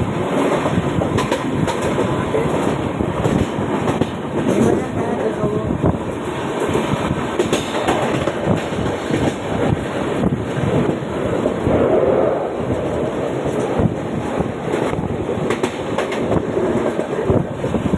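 Mumbai suburban local train running, a steady loud rumble with many short clicks and knocks of the wheels over the rail joints.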